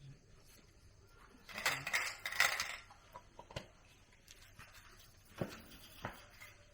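A chicken squawks once, about a second and a half in, followed by a few sharp, light clicks and clinks.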